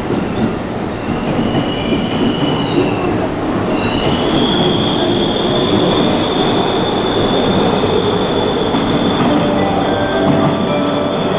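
Train rolling along the platform with a steady rumble, its wheels squealing: a few short high squeals about two seconds in, then a high, sustained multi-tone squeal from about four seconds in.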